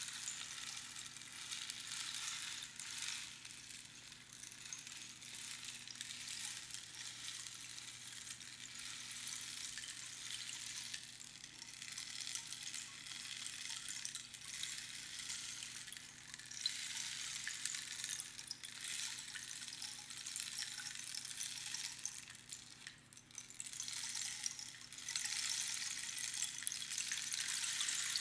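Rainstick: its filling trickling down through the pins inside the hollow tube, a continuous rain-like hiss that swells and fades as the stick is turned. It gets louder about 17 seconds in, dips briefly, then rises again near the end.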